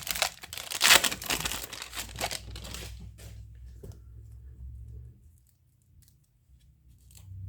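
A trading-card pack wrapper crinkling and tearing as a pack of baseball cards is opened. The rustling is loudest in the first few seconds, then dies away. A few light clicks follow near the end.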